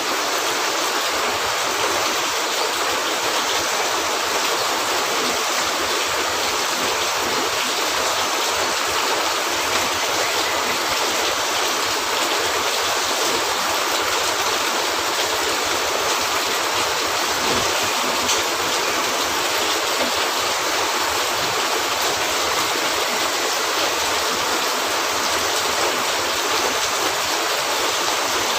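Steady rain hitting a cabin roof: an even, unbroken hiss.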